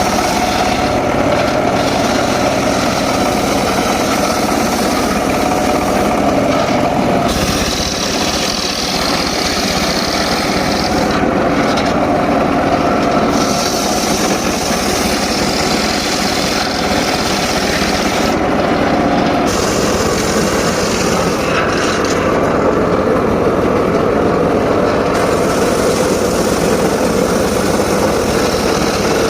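Homemade circular saw rig running steadily while it saws mahogany, a continuous mechanical drone. A higher hiss comes and goes every few seconds.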